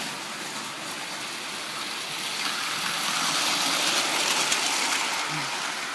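Lionel prewar Flying Yankee toy train running smoothly around the track: a steady electric-motor hum and wheel noise that grows louder about halfway through, then eases off.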